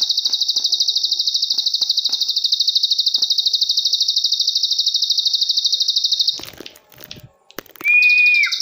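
A songbird called a ciwah singing a long, rapid, high trill without a break, which stops about six seconds in; after a short gap with a few clicks, a clear whistled note slurs downward near the end as the trill starts again.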